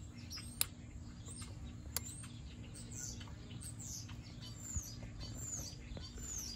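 Birds chirping, a run of short falling chirps in the second half, over a low steady hum, with two sharp taps in the first two seconds.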